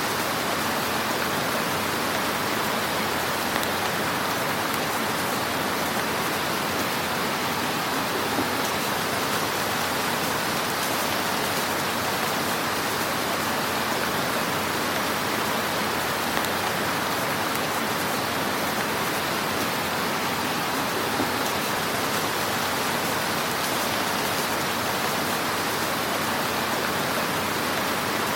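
Fire in a fireplace crackling: a dense, steady hiss of small crackles, with a few slightly louder pops.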